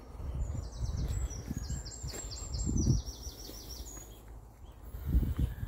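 A songbird sings one trilled phrase of rapid repeated high notes that steps down in pitch, lasting about three seconds. Underneath runs a low rumble on the microphone, with louder low bumps about three seconds and five seconds in.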